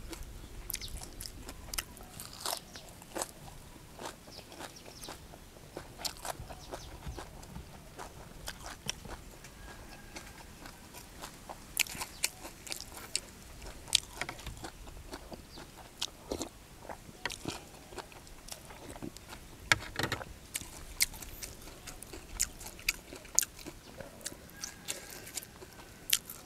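Close-miked chewing and biting of fish laab wrapped in fresh leaves, with crisp crunches and wet mouth clicks scattered throughout.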